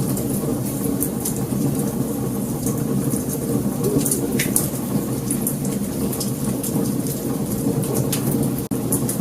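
Wood fire burning: a steady low rumble of flames with frequent sharp crackles and pops, one stronger snap about four seconds in. The sound drops out for a split second near the end.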